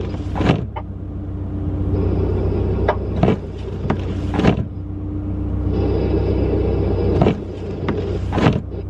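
Car running, heard from inside the cabin: a steady low rumble with scattered sharp clicks and knocks.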